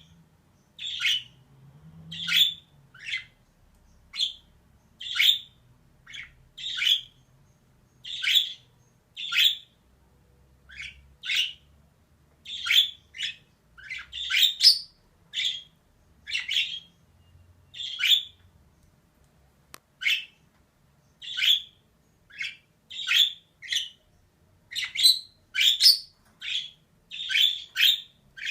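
Female budgerigar giving short, harsh chirping calls one after another, a little more than one a second, with brief pauses between.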